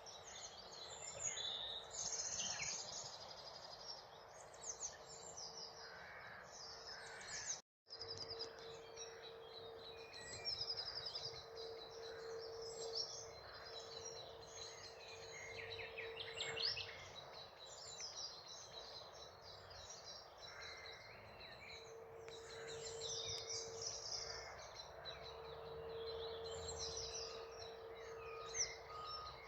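Woodland birdsong: a common nightingale singing rapid repeated phrases, with other birds calling, over a steady low hum. The sound cuts out for a moment about eight seconds in.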